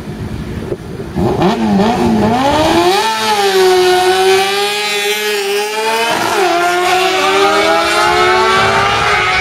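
Drag-racing motorcycles launching about a second in and accelerating hard down the strip. The engines rev up with loud rising pitch, dropping sharply at gear shifts about two seconds in and again about six seconds in.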